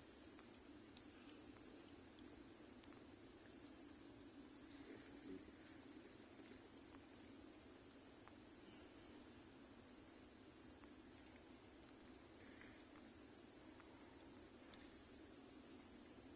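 A steady, unbroken high-pitched chorus of night insects trilling in the mangrove forest.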